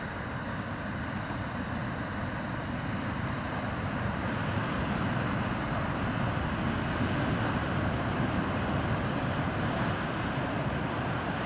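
Heavy Atlantic surf from a hurricane swell: a big wave breaking on the rocky shore. Its rushing noise swells about a third of the way in and stays loud.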